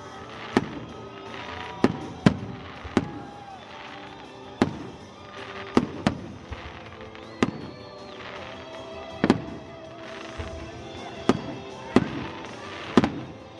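Aerial fireworks shells bursting in a steady barrage, sharp bangs roughly one to two a second.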